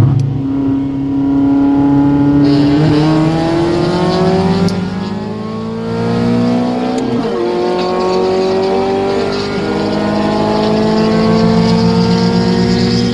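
Honda Accord's H23A four-cylinder engine doing an acceleration pull, its note rising steadily through a gear, dropping at a gear change about seven seconds in, then climbing again.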